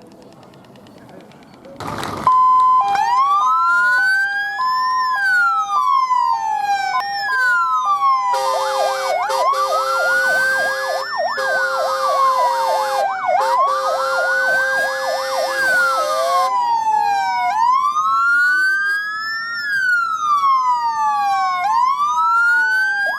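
Several fire engine sirens sounding together, starting loud about two seconds in after a brief knock. A hi-lo two-tone plays over slowly rising and falling wails, joined by a fast yelp from about eight seconds in.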